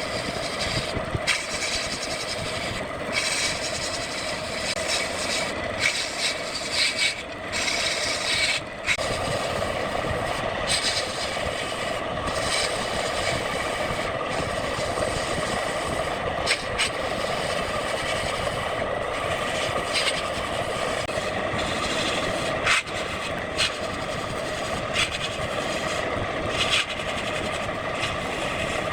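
Wood lathe running steadily while a turning tool cuts and scrapes the spinning wood, with scattered short ticks.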